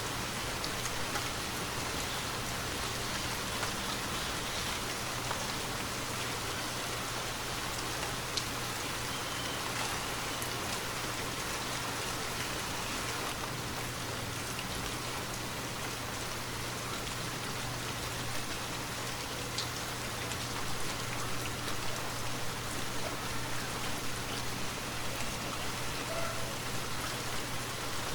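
Steady rainfall, a dense even hiss with sharp individual drop hits standing out, becoming a little more frequent in the last third.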